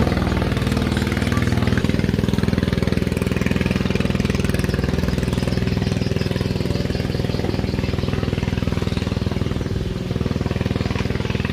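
Speedboat engine idling steadily, with an even, rapid pulsing.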